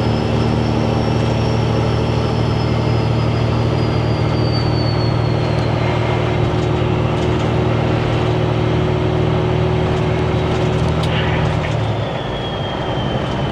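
Semi truck's diesel engine running under steady load through 8-inch exhaust stacks, with a thin turbo whistle that slowly falls in pitch and rises again near the end. About twelve seconds in the engine note drops and gets quieter for a moment.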